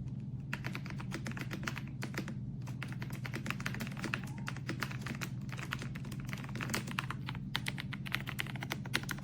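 Typing on an AULA F108 Pro full-size mechanical keyboard: rapid runs of key clicks broken by a few short pauses, over a steady low hum.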